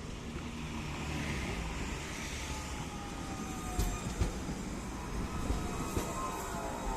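Tatra-Yug K1M tram running, heard from inside the car: a steady rumble of wheels on rail with a few sharp knocks, and a faint whine that falls in pitch in the middle.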